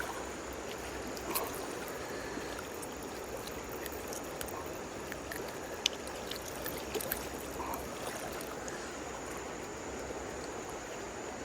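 Steady rush of flowing river water, with a few small clicks near the start and about halfway through.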